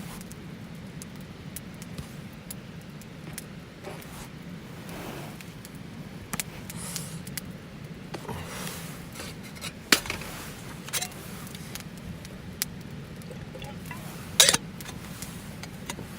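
Wood campfire burning: a steady low rush of flame with hissing swells and scattered sharp crackling pops, the loudest pops about ten and fourteen and a half seconds in.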